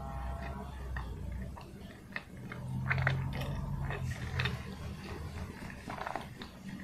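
Close-miked, mouth-closed chewing of a soft steamed peanut bun, with wet mouth clicks and smacks scattered throughout.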